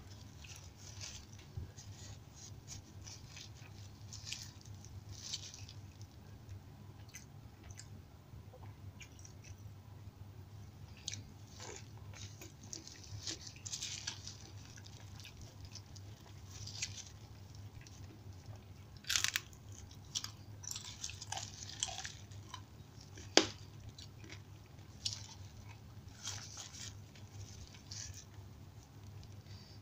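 Close-miked eating sounds: wet chewing and mouth smacking of rice and side dishes eaten by hand, with occasional crunches and one sharp loud click about three-quarters of the way through. A steady low hum runs underneath.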